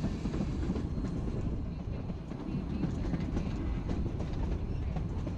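Narrow-gauge passenger train rolling along the track: a steady rumble with the wheels clicking over the rail joints.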